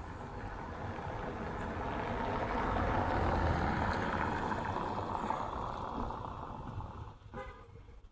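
A vehicle passing by: its noise swells to a peak about three seconds in, then fades away.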